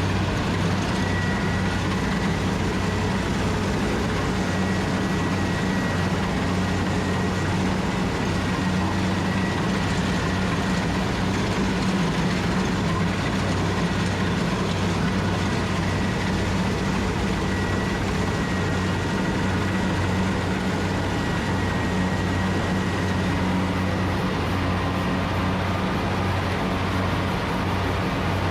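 Rice combine harvester running steadily, a constant engine and machinery hum with a thin high whine over it.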